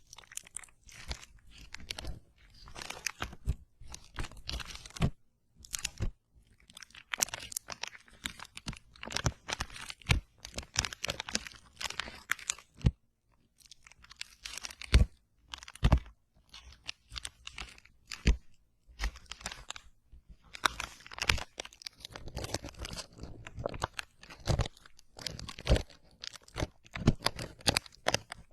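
Close-miked crunching and chewing of crunchy food, in irregular bursts with a couple of short pauses.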